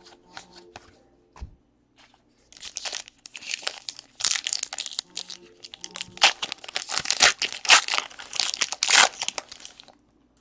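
A card pack wrapper crinkling and tearing as it is torn open and crumpled by hand. After a couple of seconds of light handling clicks, about seven seconds of dense, sharp crackling follow.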